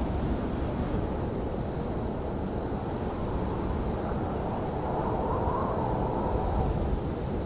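Steady low rumble of railyard ambience, with a faint high steady whine running through it and a faint brief tone about five seconds in.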